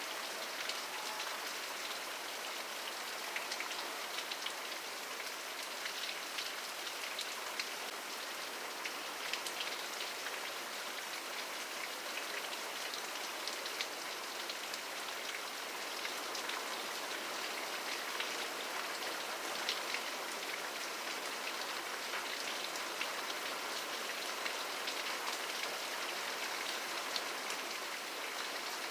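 Steady rainfall, with many distinct drops striking sharply and close together over a continuous even hiss.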